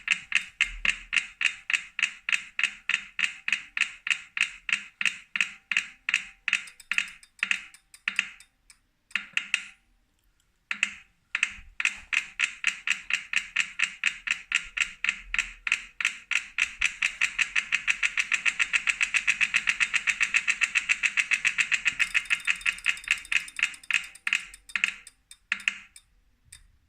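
2018 Wahoo Kickr Core bike trainer making a rhythmic clicking that keeps pace with the flywheel. The clicks come a few times a second and slow, pause briefly, then speed up again and slow to a stop near the end. This is a defect that the owner suspects is a broken axle bearing or loose magnets.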